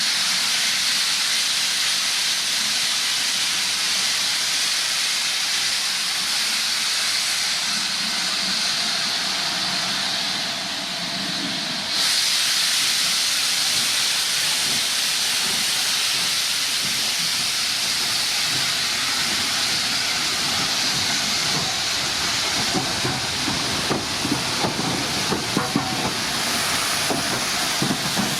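Steam locomotive venting steam in a loud, steady hiss. The hiss sags briefly about ten seconds in and comes back at full strength about two seconds later. Faint irregular knocks sound underneath near the end.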